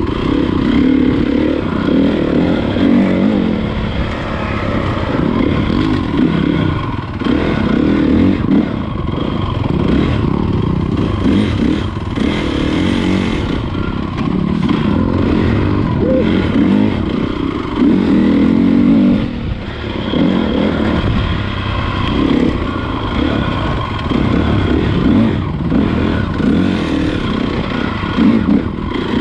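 Honda CRF450 motocross bike's four-stroke single-cylinder engine running under riding load, its note rising and falling as the throttle is opened and closed.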